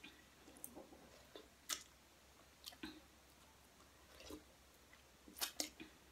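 Faint mouth sounds of a person chewing food, broken by a few short, sharp clicks of a metal spoon scooping from a stainless steel pot, loudest about five and a half seconds in.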